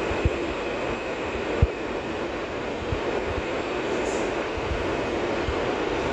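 R160 subway car running along the track, a steady rumble of wheels on rail with a faint high steady tone and scattered low thumps, including two sharper knocks in the first two seconds.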